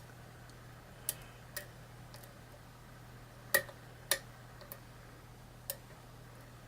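Small, sharp metallic clicks of a lock pick and tension wrench working the pins inside a lock cylinder: about six irregular ticks, the loudest two a little past halfway. A faint steady low hum runs underneath.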